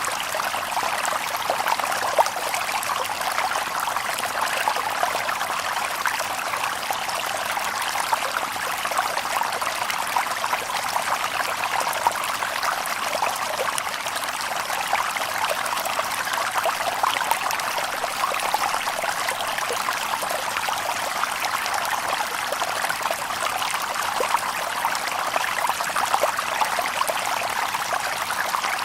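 Shallow stream babbling and trickling over stones, a steady splashing water sound without a break.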